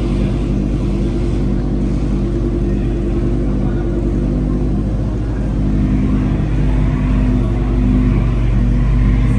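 A car engine running steadily near the microphone, growing a little louder in the last few seconds.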